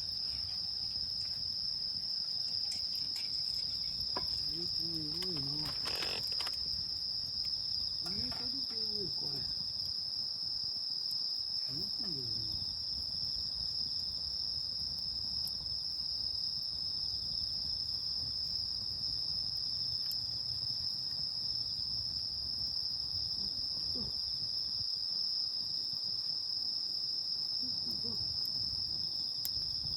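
Night insects singing in a steady chorus, one continuous high-pitched trill that never lets up, with faint voices murmuring now and then.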